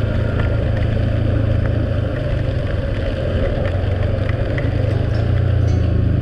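A vehicle engine running steadily as it travels, with a low drone under road and wind noise.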